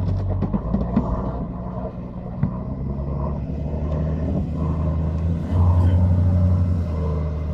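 A ship pushing through ice: a steady low rumble from the ship, with cracking and crunching in the first second or so. The rumble grows louder for a second or two near the end.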